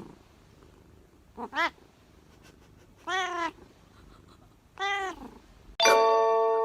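A cat meowing: two short meows close together, then two longer meows. Near the end, a louder bell-like chime of several steady ringing tones starts.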